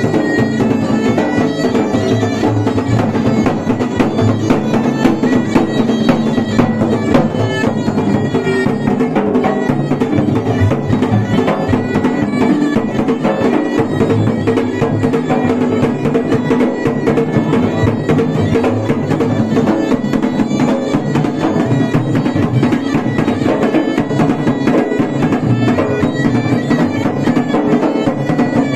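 Uttarakhand folk music on dhol and damau drums, beaten in a fast, dense, steady rhythm, over a continuous droning pipe.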